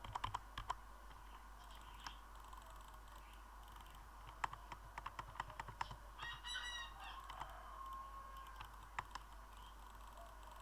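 Faint scattered clicks, coming in quick clusters, with a brief pitched call about six seconds in.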